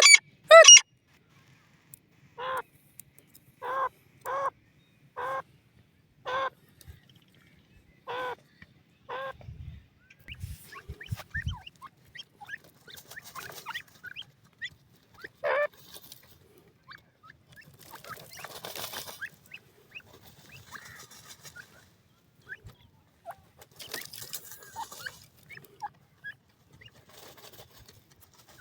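Francolin (teetar) giving short harsh alarm calls, about one a second for the first ten seconds, then only a few scattered softer calls with some rustling and low thumps.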